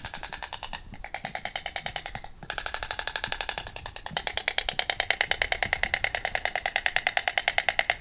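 White stork clattering its bill: a rapid wooden rattle of about ten clacks a second, in several runs, the last and loudest from about four seconds in.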